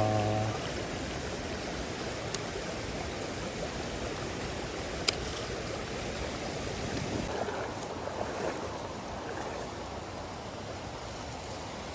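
Steady rush of a fast-flowing mountain stream, with two brief sharp clicks about two and five seconds in.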